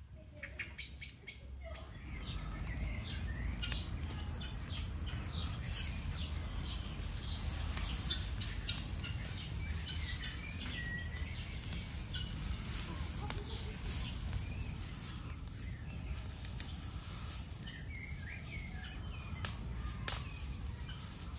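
Small birds chirping repeatedly over a steady low rumble, with scattered clicks and one sharp click near the end.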